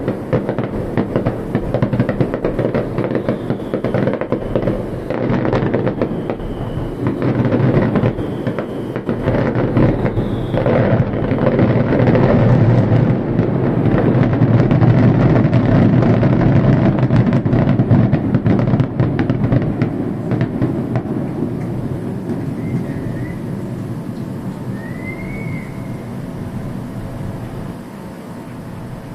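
Fireworks display: a rapid barrage of aerial shell bursts over a continuous low rumble of echoing booms. It builds to a dense, loud peak about halfway through, then thins out and fades to a lingering rumble.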